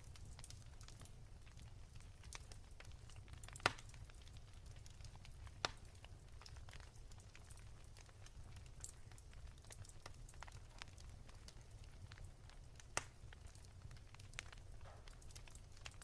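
Wood fire crackling softly: scattered small crackles with three sharper pops, one a little before the middle, one soon after, and one late on, over a low steady rumble.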